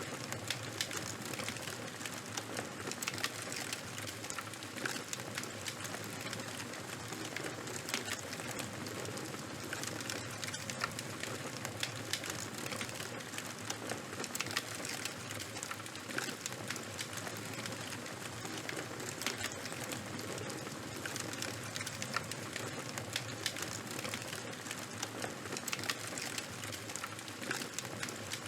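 Fire crackling: a steady hiss dotted with many small, irregular pops and snaps.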